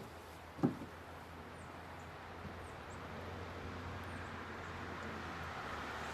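Outdoor wind noise that builds slightly, with a single sharp knock about half a second in and a few faint, very high bird chips.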